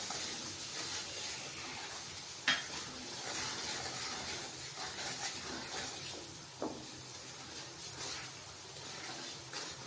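Masala of ginger-garlic, dried red chilli, turmeric and salt frying in hot oil in a wok: a steady sizzle as a wooden spatula stirs it, with two knocks of the spatula against the pan.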